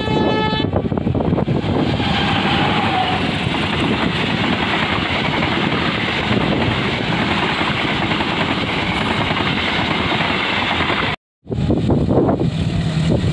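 Indonesian passenger train hauled by a CC 203 diesel-electric locomotive: a short horn blast at the start, then the locomotive and coaches pass close by with a steady rush and clatter of wheels on rail for about nine seconds. After a sudden cut, a second diesel locomotive, a CC 206, rumbles as it approaches.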